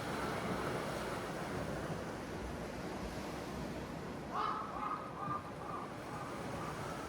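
Steady sea surf and wind noise, with a crow cawing in a quick run of short caws a little over four seconds in.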